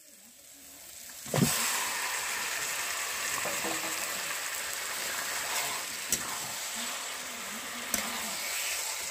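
Marinated chicken going into a pan of hot fried onion, tomato and spice paste: a sudden loud sizzle about a second and a half in, then steady frying with a couple of sharp knocks.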